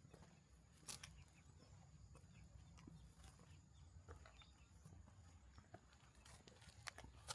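Near silence: faint outdoor ambience with a low rumble and a few faint scattered clicks, the clearest about a second in.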